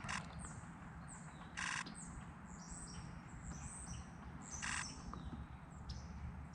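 Small birds chirping: many short, high, downward-slurred chirps. Two brief bursts of rapid clicking come about a second and a half in and near the five-second mark.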